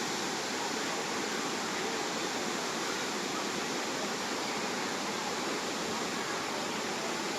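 Waterfall water rushing in a steady, even noise.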